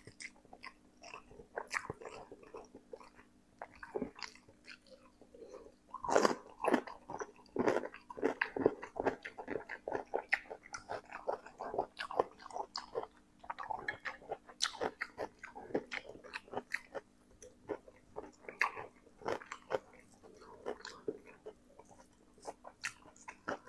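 Close-miked chewing of a mouthful of spicy Samyang noodles: irregular wet clicks and crunches, busiest and loudest from about six to thirteen seconds in.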